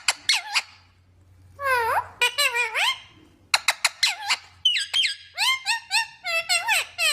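Green parrot calling in quick runs of short, high calls that glide up and down, mixed with sharp clicks, in three bursts: right at the start, from about a second and a half in, and again from about three and a half seconds in.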